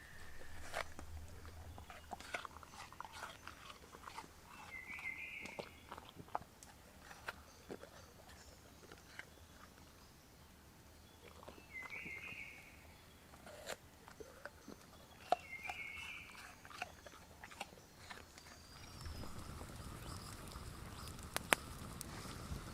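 Faint, irregular clicks and crunches, with three short bird chirps.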